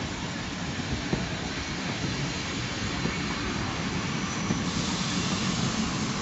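Train running on the track: a steady rumble with a few light knocks, joined by a higher hiss about four and a half seconds in.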